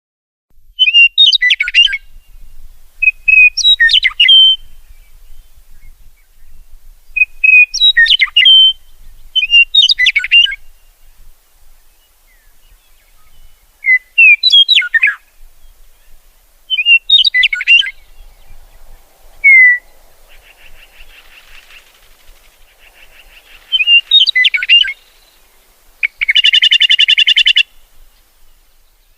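A songbird singing short, clear whistled phrases, about a second each, repeated every few seconds. Near the end comes a rapid, buzzy trill.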